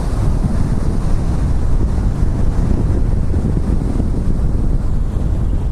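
Wind buffeting a small camera's built-in microphone: a loud, steady low rumble.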